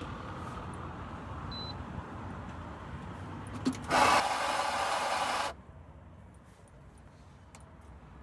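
Barista's coffee equipment in a coffee van: a low steady background, then about four seconds in a loud burst of whirring, hissing noise that lasts about a second and a half and cuts off sharply.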